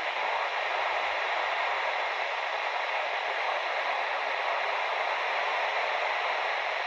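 Steady hiss of radio static from a weather radio receiver, with no voice on the channel.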